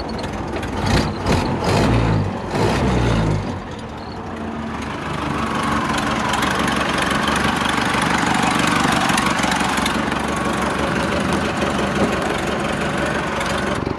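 Ford Model A four-cylinder flathead engine, freshly rebuilt and just timed, running: it surges a few times in the first four seconds, then runs steadily.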